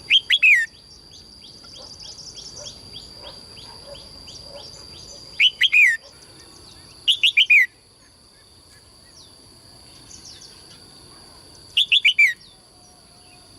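Songbird calling: four loud bursts of three or four quick, falling chirps, a few seconds apart, with a run of softer repeated chirps between the first two. A steady high-pitched tone runs underneath.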